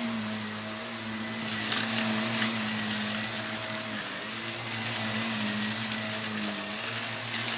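Vacuum cleaner running with a steady motor hum, crackling as it sucks up crunchy debris; the crackle gets louder about a second and a half in.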